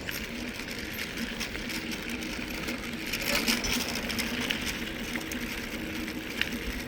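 Mountain bike rolling along the trail: steady tyre noise with a fast mechanical ticking from the drivetrain.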